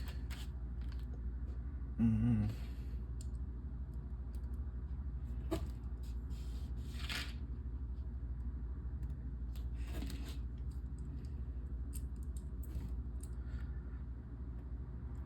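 LEGO plastic pieces being handled and pressed together: scattered small clicks and rustles, with a few sharper snaps about five and a half, seven and ten seconds in, over a steady low hum. A brief low murmur from the builder about two seconds in.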